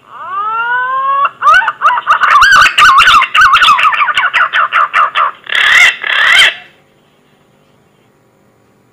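Punai (green pigeon) call played as a hunting lure. A whistle rises in pitch for about a second, then a fast run of wavering, warbling whistled notes, and two longer notes end it about seven seconds in.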